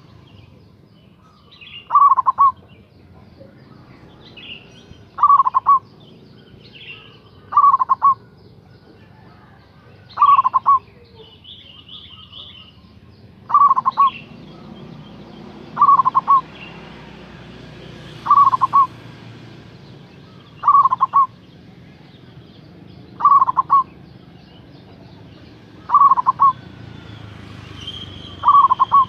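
Zebra dove (perkutut) cooing: a short stuttered burst of rapid coo notes, repeated about every two and a half seconds, around eleven times. Faint high chirps come between the coos.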